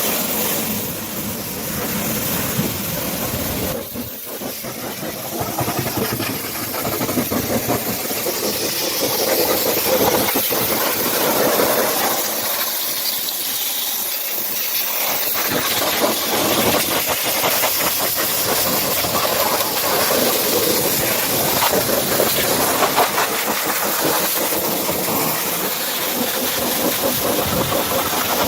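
High-pressure washer jet spraying water onto a truck, a steady loud hiss whose level wavers as the spray moves.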